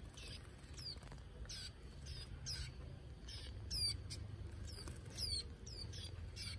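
White-eyes giving short, high chirps that slide down in pitch, about two a second.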